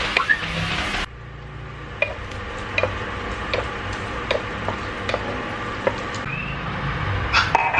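Utensil clicking lightly against a cooking pot while stirring, a click about every three-quarters of a second, with a quick cluster of clicks near the end. A louder hiss cuts off about a second in.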